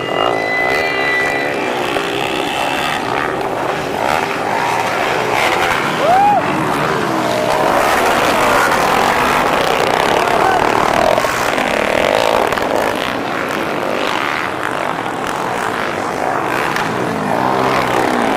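Several four-valve underbone motorcycles racing on a dirt flat track, their engines revving hard with pitch rising and falling as they accelerate and back off.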